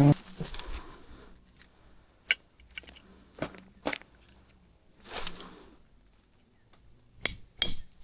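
Scattered light clicks and knocks, with a brief rustle about five seconds in. Near the end, sharp strikes start up at about two a second, the blows of a hand tool hitting something hard.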